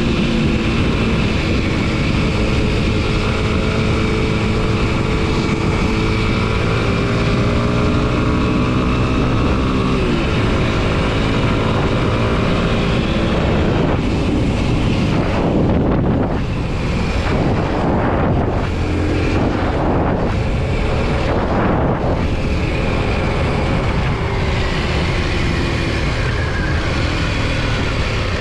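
2023 Kawasaki KLX 230 SM's single-cylinder engine running under way, its note rising and falling gradually with the throttle. Wind rushes over the microphone, heaviest in gusty pulses through the middle of the stretch.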